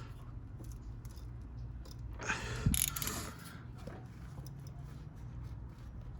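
Hand tools being handled at a car's brake hub: a short metallic rattle with a knock between two and three seconds in, over a low steady hum.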